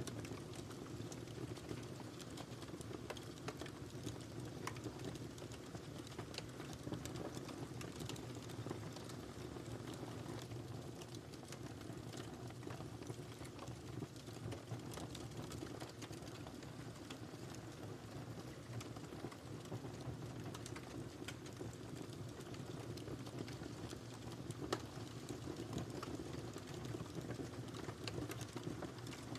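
Wood fire burning in a fireplace: a steady low rumble with many small irregular crackles and snaps, and one louder pop near the end.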